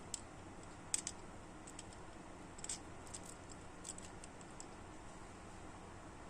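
Scattered light clicks and taps over a steady low hum, the sharpest about a second in and a small cluster near three seconds.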